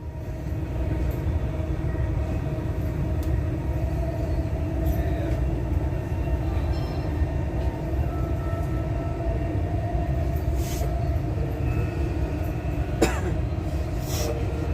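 Dubai Metro train running, a steady rumble with a faint steady hum, and one sharp knock about thirteen seconds in.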